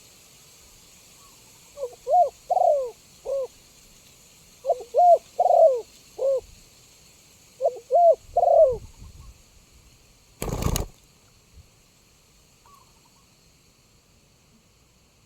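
Spotted dove cooing: three phrases of three or four low, rounded coo notes, a couple of seconds apart. About ten seconds in comes a short, loud thump.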